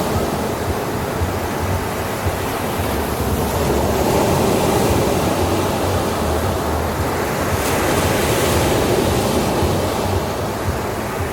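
Ocean waves breaking and washing onto the shore in a steady surf, with one wave swelling and breaking more brightly about eight seconds in.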